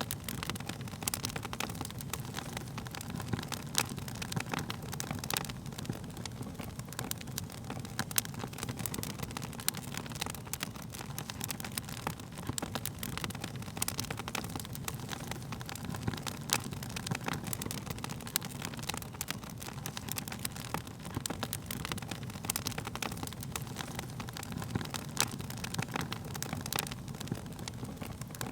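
Wood fire burning, a steady low rumble of flames under frequent sharp crackles and pops from the burning wood.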